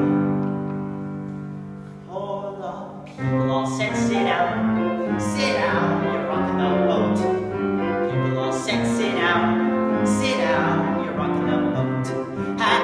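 Music: a piano accompaniment. A held chord fades over the first couple of seconds, then the piano picks up a steady rhythm of struck chords.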